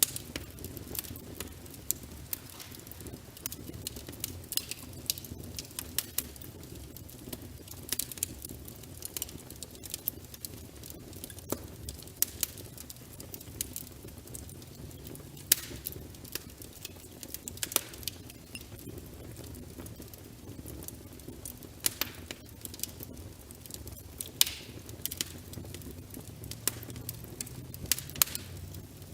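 Log fire burning in a fireplace: a steady low rumble of flames with frequent irregular crackles and sharp pops of the burning wood.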